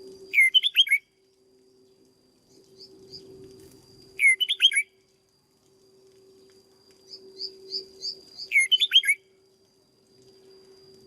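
Red-whiskered bulbul singing short phrases of quick sweeping whistled notes, three times about four seconds apart, with softer chirps between the last two.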